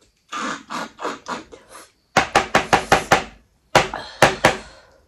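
Close-up chewing of a handful of rice, mutton and crumbled papad: soft wet chewing for about two seconds, then a run of sharp crisp crunches about six a second, and a few more a second later.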